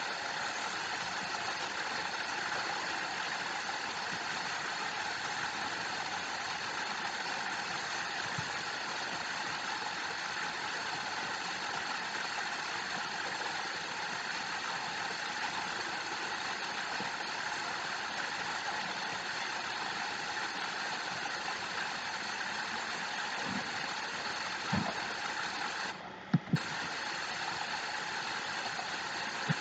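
Waterfall: a steady, even rush of falling water, with a few faint knocks and a brief drop-out near the end.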